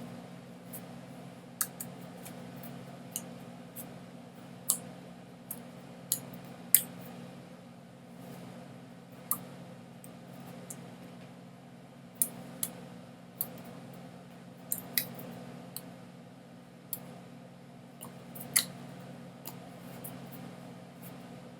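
Irregular sharp clicks, a dozen or more, scattered over a steady low hum.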